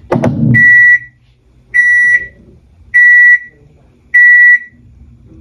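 Panasonic NA-FA80H8 washing machine beeping its end-of-cycle alert: four identical steady high beeps about a second apart, signalling that the wash has finished. A sharp knock sounds just before the first beep.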